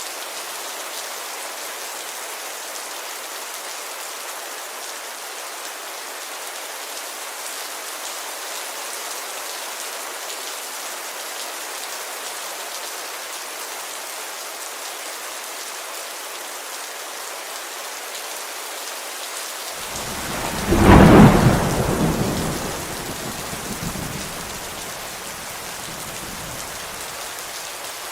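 Steady rain falling on a window glass, with a thunderclap about three-quarters of the way through that strikes loudly and rumbles away over about three seconds.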